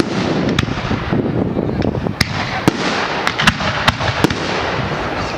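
Fireworks going off in a rapid barrage: a continuous rumble of bursts with many sharp cracks, several a second.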